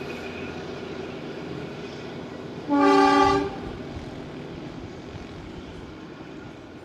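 Kalka–Shimla narrow-gauge toy train's diesel locomotive running as it pulls away, with one short horn blast about three seconds in, the loudest sound. The engine and wheel noise then slowly fades as the train draws off.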